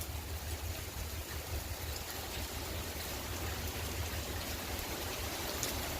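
Heavy rain falling steadily, a constant hiss, with gusting wind rumbling on the microphone.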